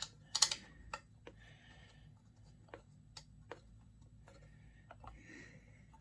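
Scattered small metallic clicks and taps of a bolt and hand tools being handled while a bolt is fitted on a chainsaw under reassembly, with two sharper clicks about half a second in.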